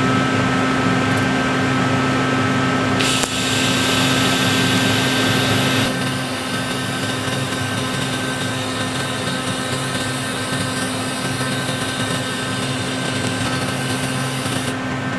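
TIG welding arc hissing as silicon bronze filler rod is brazed onto a steel motorcycle swing arm. It sits over a steady machine hum. The arc is struck about three seconds in, is loudest for a few seconds, then runs on steadily and stops just before the end.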